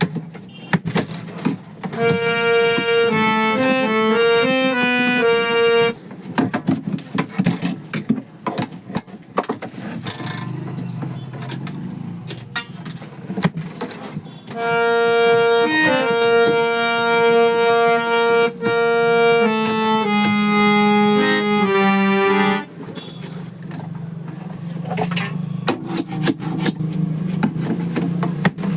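Harmonium reeds sounding held notes and short changing phrases in two stretches, about 2 to 6 seconds in and again from about 14 to 22 seconds in, with scattered clicks and knocks from the instrument being handled between them.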